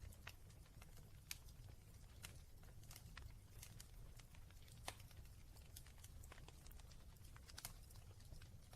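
Quiet wood fire crackling in a fireplace: irregular small pops and snaps, two sharper ones about a second in and near the middle, over a low steady rumble.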